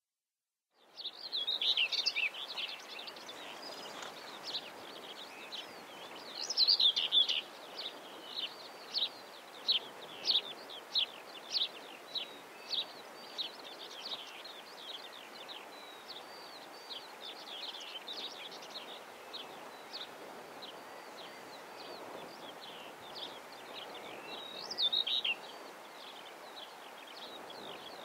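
Songbirds singing and chirping over a faint steady background hum. Louder bursts of song come early, at about seven seconds and again near the end, and from about eight to fourteen seconds a bird repeats a single chirp about three times every two seconds.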